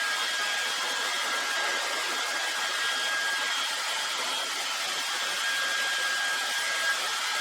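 Handheld hot-air blower running steadily, a rushing of air with a high, even whine, used to soften the adhesive of stickers being peeled off.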